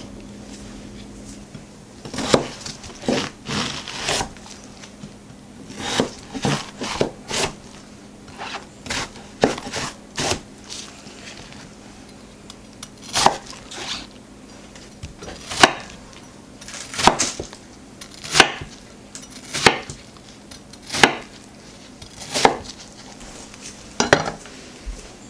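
Knife chopping on a cutting board: about twenty sharp knocks starting about two seconds in, some single and some in quick runs of two to four, with short pauses between.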